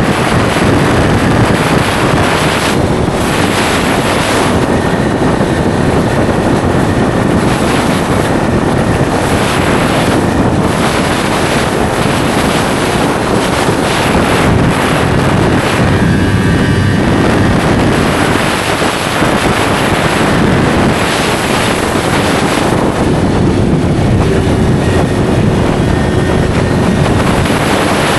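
Yamaha R3 parallel-twin motorcycle with an SC Project slip-on exhaust running along the road, heavily mixed with wind noise on the microphone.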